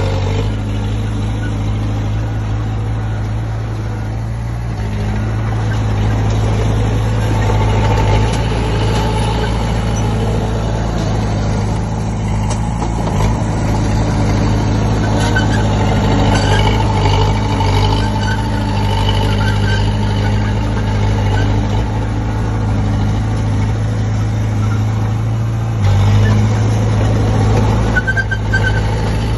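Komatsu D20P bulldozer's diesel engine running steadily under work, a low even drone that grows a little louder near the end. A few short, faint high chirps come in over it.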